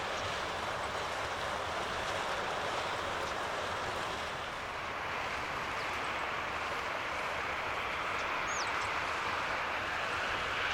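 Steady rushing of running water, like a stream or weir, with one short high bird chirp falling in pitch near the end.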